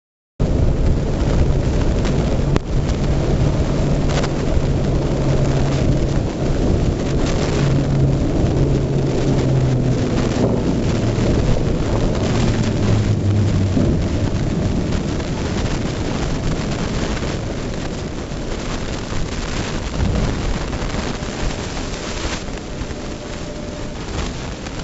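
Heavy wind and rain noise on an action camera's microphone during a highway ride in the rain. A vehicle engine's low hum shifts pitch a few times over the first half, then fades into the noise.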